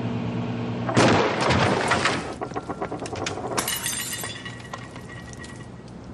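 A microwave oven humming, then cut off about a second in by a loud bang as it explodes with eggs inside. Breaking glass and clattering debris follow, with a second glassy crash a few seconds later, and the debris settles and fades out.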